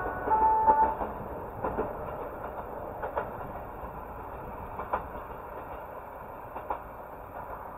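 A train running away along the track, its wheels clicking over the rail joints every second and a half or so, with a brief high squeal-like tone in the first second.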